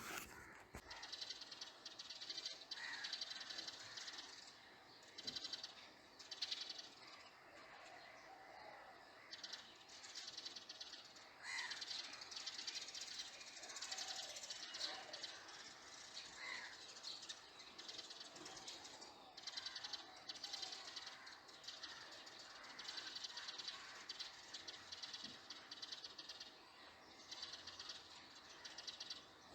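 Birds calling: repeated bursts of rapid, buzzy rattling trills, with a few short chirps between them.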